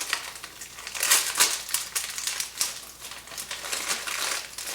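Plastic MRE accessory pouch crinkling in the hands as it is handled and opened, in irregular crackles that are loudest about a second in.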